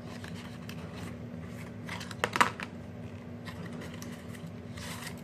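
A few light clicks and taps of packaging being handled as a small box is opened, with a sharper click about two and a half seconds in, over a faint steady hum.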